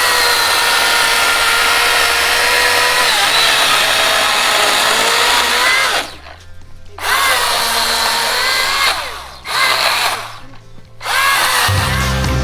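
Milwaukee battery-powered power tool's electric motor running in three long bursts with short pauses between them. The pitch dips and recovers as it takes load. Music comes in just before the end.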